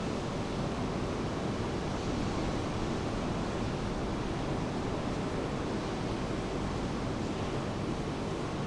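Steady rushing of rain and ocean surf, an even noise heaviest in the low range, with no separate wave crashes standing out.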